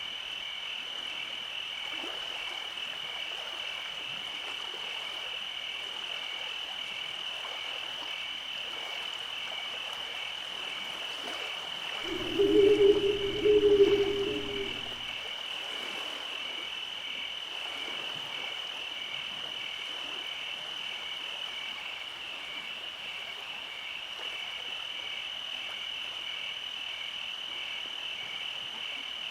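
Night chorus: a steady, high-pitched, pulsing trill of insects throughout, with a frog croaking loudly twice in quick succession about twelve seconds in.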